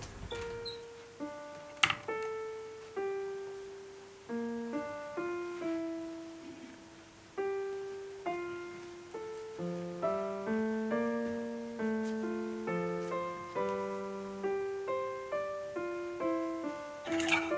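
Slow, gentle solo piano music: single notes and soft chords, each note struck and left to fade. A sharp click comes about two seconds in and a short cluster of clicks near the end.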